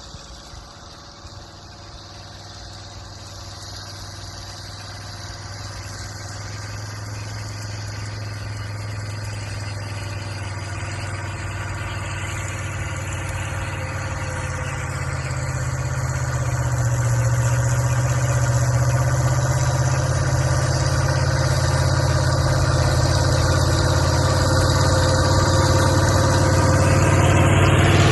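Linn tractor's engine running steadily while it pulls the drag, growing steadily louder throughout as it comes closer.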